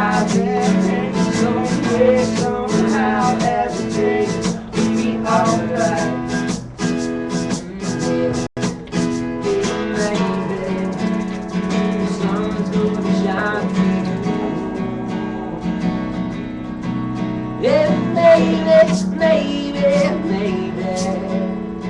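Live acoustic band music: a strummed acoustic guitar, with quick even strums through the first half, then held chords with a melodic line over them near the end.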